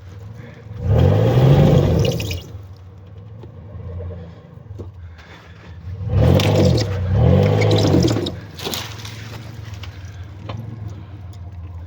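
Off-road vehicle's engine revved in three bursts, each rising and falling in pitch, idling between them, as the vehicle strains while hung up on a tree.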